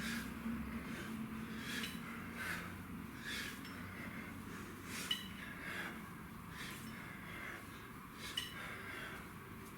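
Sharp, rhythmic breaths during hard kettlebell swings, about one every 0.8 seconds, with two short clinks about five and eight seconds in.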